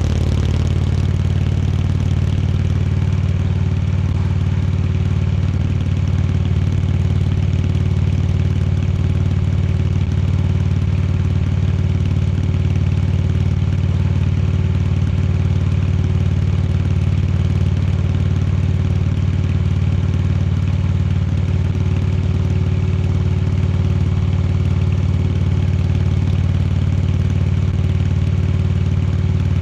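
Indian Chieftain Dark Horse's V-twin engine running at a steady, unchanging pace, its deep note even throughout.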